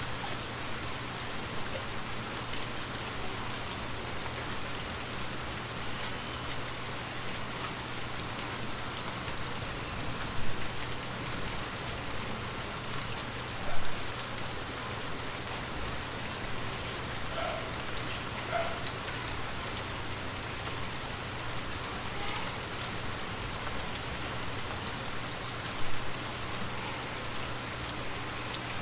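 Steady rain falling on a surface, with three sudden louder taps of drops striking close by, about a third of the way in, about halfway and near the end.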